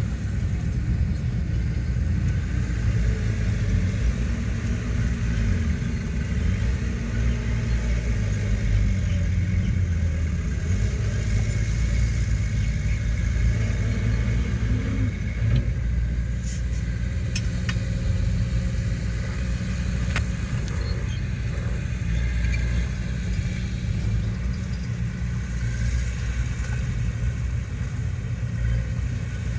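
Diesel engines of heavy earthmoving machinery running, a steady low rumble with a few short clanks partway through.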